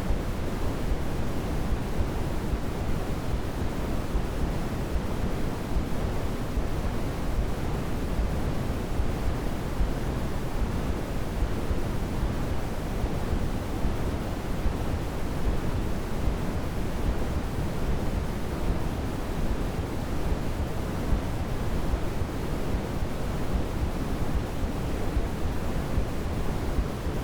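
Steady, unchanging sleep-aid noise with no pattern or swells, fuller in the low end and softer in the highs, a deep shushing hiss used to soothe a crying baby.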